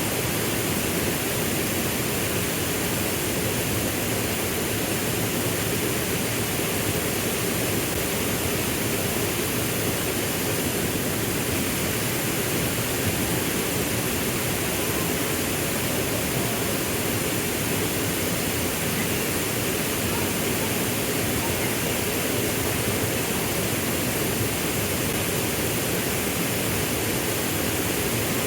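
Waterfall pouring: a steady, dense rush of falling water that does not change.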